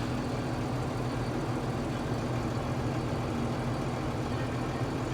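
Tractor diesel engine idling steadily, heard from inside the cab.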